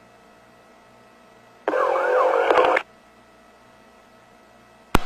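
Police radio channel hissing faintly, broken by a short garbled transmission about a second long with wavering, gliding tones, which cuts off abruptly. A sharp click near the end as the channel is keyed again.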